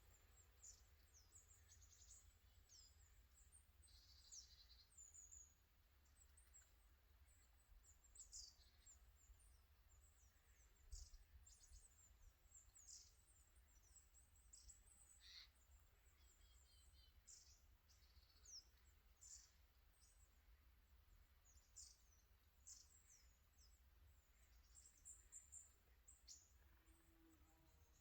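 Small birds calling faintly: many short, high-pitched chirps and twitters scattered throughout, over a steady low rumble.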